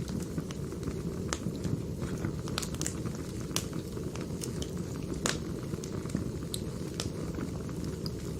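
Burning firewood crackling: irregular sharp pops and snaps over a steady low rush of the fire, with one louder pop about five seconds in.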